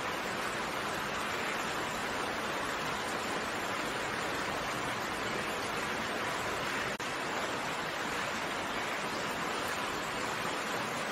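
Steady, dense rain falling, an even hiss of many drops with no single drop standing out, broken only by a very brief dip about seven seconds in.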